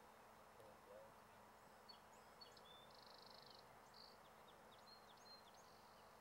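Near silence with faint, high-pitched small-bird calls: scattered short chirps and a brief buzzy trill about three seconds in.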